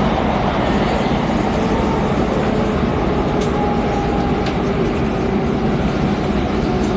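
Steady running noise of an X10 electric commuter train at speed, heard from inside the carriage: an even rumble of wheels on rail with faint steady tones over it and a couple of faint clicks midway.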